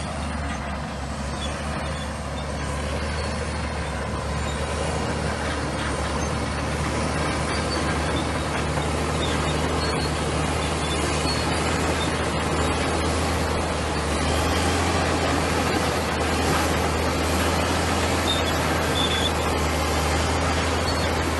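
Komatsu bulldozer's diesel engine running steadily and slowly growing louder, with faint clatter and a few brief high squeaks over the engine sound.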